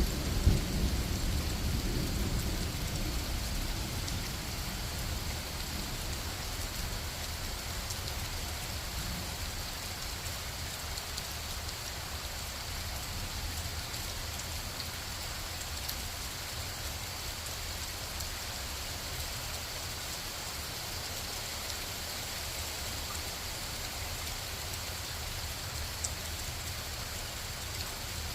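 Steady rain falling, with the tail of a low thunder rumble dying away over the first few seconds.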